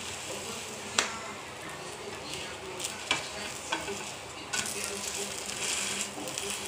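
A masala paratha sizzling in oil in a nonstick frying pan while a slotted spatula scrapes and taps against the pan, with one sharp tap about a second in. The sizzle grows louder about four and a half seconds in, as the paratha is flipped and pressed down onto the hot pan.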